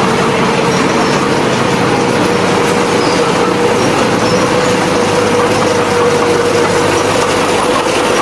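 Heavy earthmoving machine's diesel engine running steadily at a work site, with a steady whine held over the engine noise.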